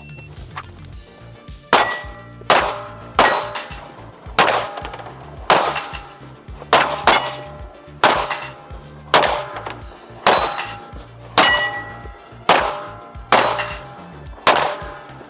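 A shot timer's start beep, then a string of about eighteen pistol shots at an uneven pace over roughly fourteen seconds, many followed by the ring of struck steel plates. It is a timed silhouette-to-plate-rack drill fired on the move.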